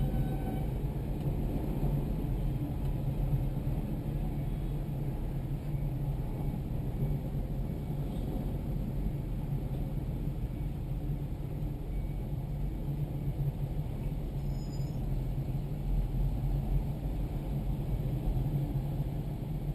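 Tractor diesel engine running steadily, a continuous low rumble with no change in pace.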